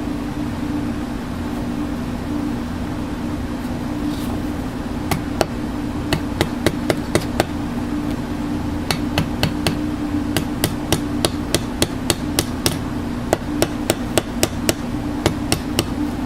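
Hammer tapping in quick runs of sharp strikes, starting about five seconds in, over a steady low hum.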